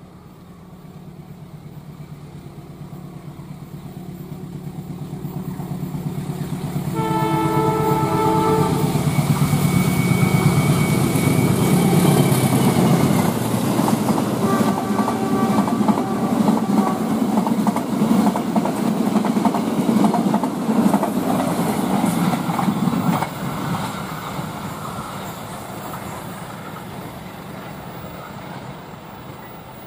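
Indonesian KAI passenger train passing, hauled by a diesel locomotive. The engine's drone grows louder as it approaches, and its multi-tone horn sounds about seven seconds in and again, lower, around fifteen seconds. The rumble and clatter of the coaches' wheels on the rails follows, fading over the last several seconds as the train moves away.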